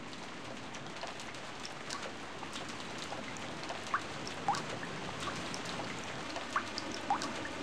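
Steady rain, with many scattered drop ticks and a few short rising plinks of drops falling into water, about four seconds in and again near the end. It grows slowly louder throughout.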